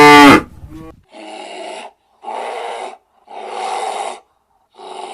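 The loud tail of a cow's moo, cut off about half a second in. It is followed by four breathy snorts from an animal, each a little under a second long, coming about once a second.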